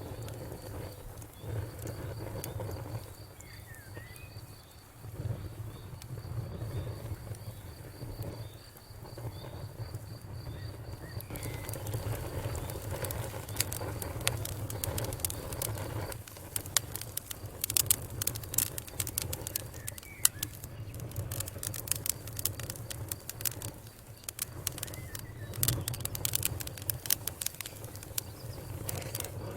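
Wood fire crackling: a low steady rumble of burning with sharp pops and snaps, which come much thicker from about a third of the way in.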